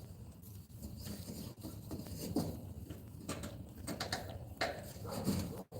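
Backyard chickens moving about: irregular short taps and scratches with a few brief, soft calls.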